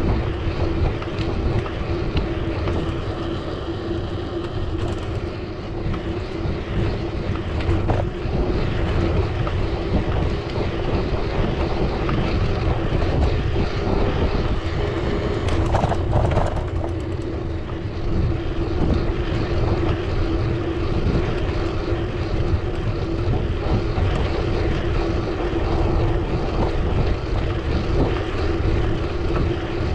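Steady road and wind noise from riding a bicycle in traffic: a continuous low rumble with a steady hum throughout.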